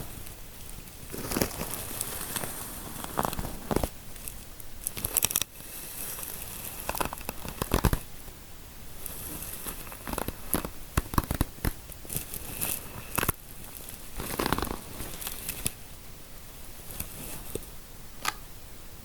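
Close-miked scratching and rubbing of fingers through hair and over the scalp in an ASMR scalp massage, an irregular run of crackly, rustling strokes with sharper scratches every second or so.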